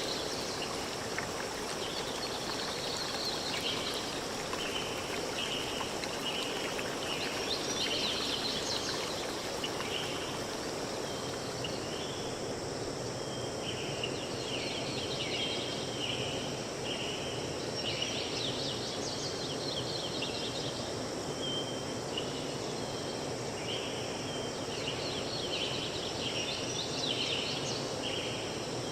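Forest ambience: birds singing phrases of short repeated notes, recurring every several seconds, over a steady background hiss.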